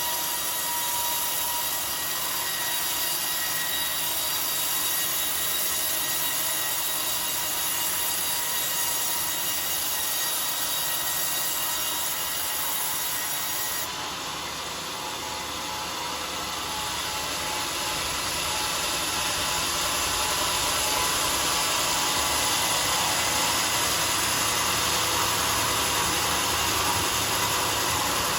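Sawmill circular saw blade cutting through a coconut log, a steady saw noise with high ringing tones. About halfway through it dips briefly, then grows a little louder.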